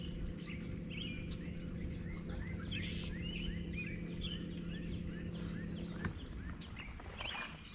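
Birds singing, one of them repeating a quick series of slurred chirps about three a second, over a steady low hum that cuts off about six seconds in. A short rustle comes near the end.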